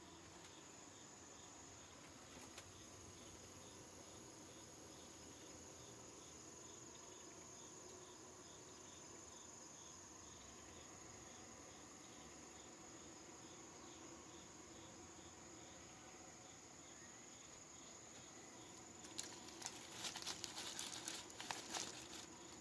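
Faint insect chirping, a soft pulse repeating about twice a second over a steady high hum, with a burst of crackling and clicking near the end.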